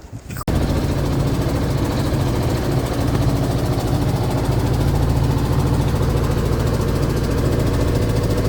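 Long-tail boat engine running steadily under way. It sets in abruptly about half a second in.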